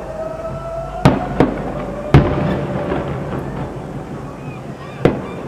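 Aerial firework shells bursting: four sharp bangs, two close together about a second in, the loudest about two seconds in, and one more near the end, each with a short echoing tail.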